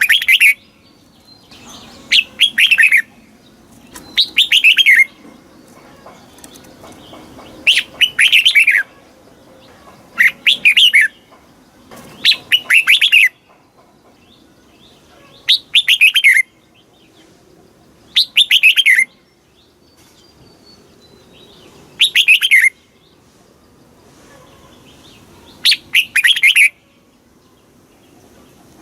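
Red-whiskered bulbul singing: short phrases of quick, falling whistled notes, repeated every two to three seconds.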